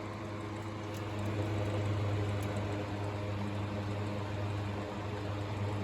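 Small two-speed electric table fan (Windream FE-20M) running on high speed: a steady motor hum with air noise, swelling slightly about two seconds in. Its intermittent rattle, which the owner suspects is the guard vibrating, has just started, and the fan is a little out of balance.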